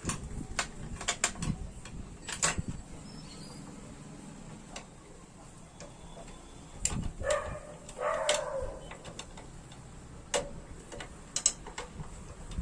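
Irregular sharp clicks and taps, like metal parts and hand tools being handled, with a short two-part rasping scrape about seven seconds in.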